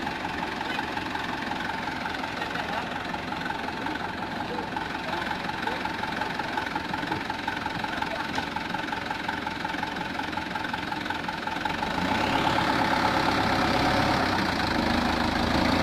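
Mitsubishi Canter truck's diesel engine running steadily, then growing louder and deeper about twelve seconds in as it takes more load.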